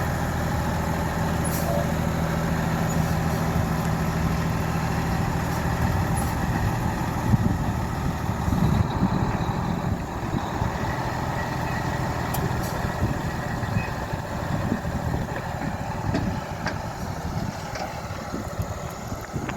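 A large vehicle engine running steadily, with a deep even hum that shifts about eight seconds in and then turns rougher and more uneven.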